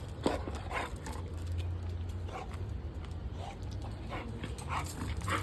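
A dog making small sounds, with scattered short rustles and clicks over a steady low hum.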